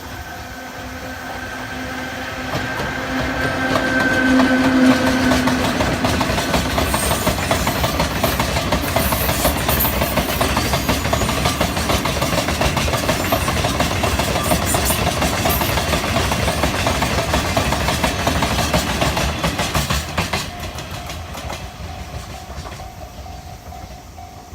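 Chichibu Railway electric locomotive Deki 102 passes with a long freight train of hopper wagons. A steady hum from the locomotive swells to its loudest about five seconds in. Then comes a long run of wheels clattering over rail joints, which drops off suddenly about twenty seconds in as the end of the train goes by and fades away.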